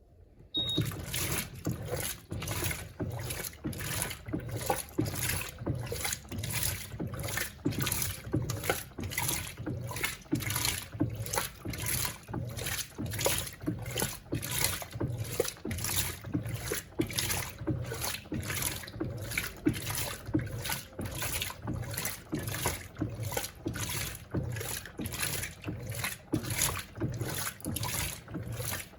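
Electrolux Turbo Compacta LTC07 top-loading washing machine agitating a wash load: the agitator swishes the water back and forth in a steady rhythm of about two strokes a second. It starts about half a second in.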